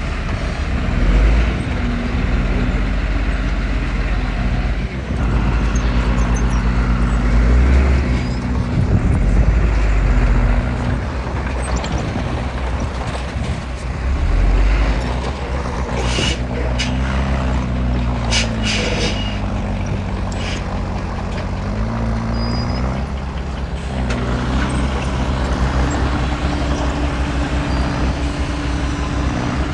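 Heavy diesel engines of earthmoving machinery working, with a steady low rumble. About two-thirds of the way through the engine pitch dips and rises again, and a few sharp hisses or clanks cut through.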